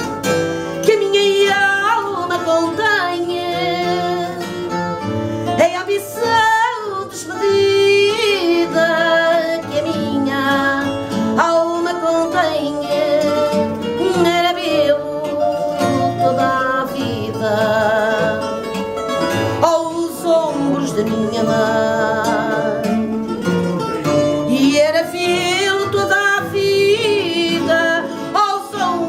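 Fado song: a female voice singing with vibrato over a Portuguese guitar and a viola (classical guitar).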